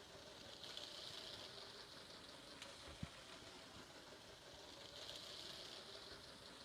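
Faint running whir of a Lego City 60197 battery-powered toy passenger train, growing louder twice as it passes close by, with one small knock about halfway through.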